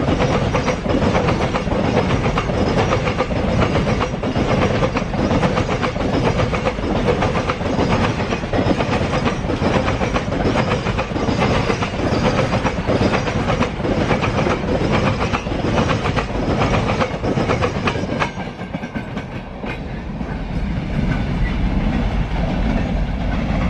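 A freight train's wagons rolling past with a rapid, continuous clatter of wheels over the rail joints. About 18 seconds in, the clatter drops away and a quieter, deeper rumble takes over.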